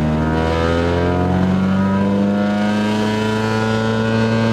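Honda Civic wagon's engine and loud exhaust droning steadily under way, heard from inside the cabin; the note rises slightly in the first second or so, then holds level.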